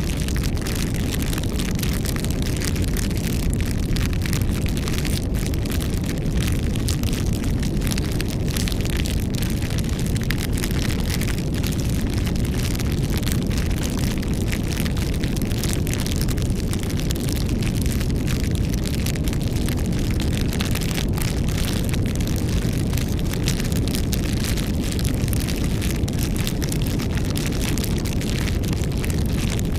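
Wood campfire burning, with a steady low rumble of flame and frequent irregular sharp crackles and pops.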